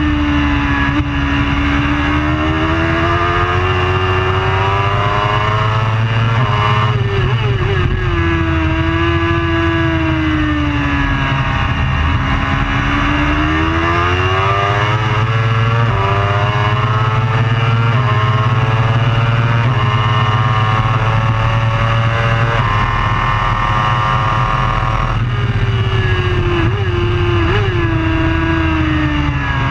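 Superbike engine at race pace, its pitch climbing through a run of quick upshifts and falling away under braking, over a steady low rumble.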